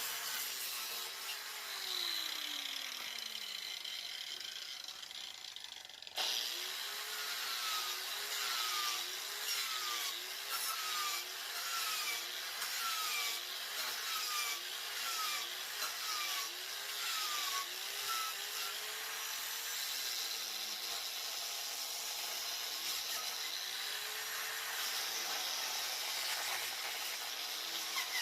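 Angle grinder fitted with a chainsaw-chain wood carving disc, cutting into wood. The motor's pitch dips and recovers again and again as the chain bites, over a rasping of chips, and through the middle there is a short falling whine roughly once a second.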